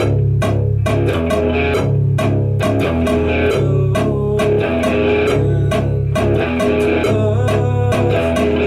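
Rock band playing a song on electric guitar and bass guitar, with sharp hits on a steady beat: a scratch take of the track.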